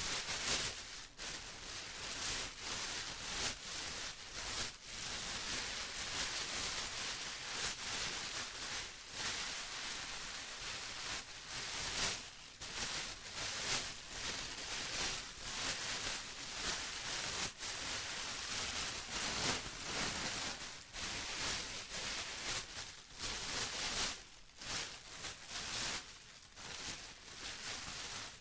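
Plastic being rustled and crinkled by hand in a continuous, irregular crackle with uneven swells in loudness.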